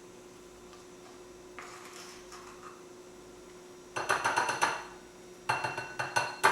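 Metal utensil clinking rapidly against a small bowl in two short bursts of clicks, after a brief soft rustle of dry ingredients, over a faint steady hum.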